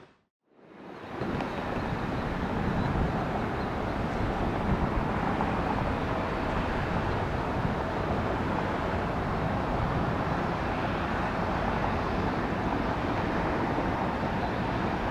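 Steady rush of jet airliner engines at an airport, a continuous even noise that fades in after a brief gap of silence at the start.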